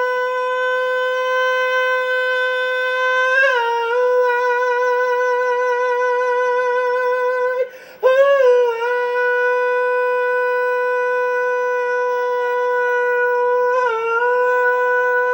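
A singer holding two long, high wordless notes of about eight seconds each, each sliding down slightly into the pitch at its start, with a brief break between them about eight seconds in and a light waver in the first note's second half.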